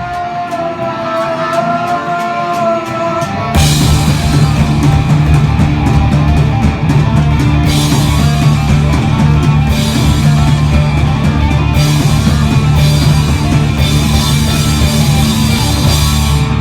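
Rock music: a quieter passage of held guitar notes, then the full band with drums comes in about three and a half seconds in and plays on loudly.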